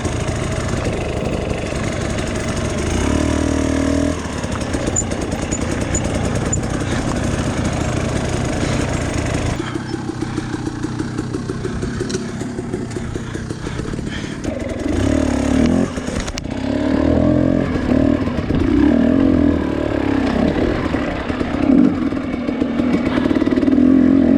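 Two-stroke dirt bike engine revving up and down under varying throttle over rough, rocky ground, with some clatter. The sound changes abruptly about ten seconds in and again about sixteen seconds in.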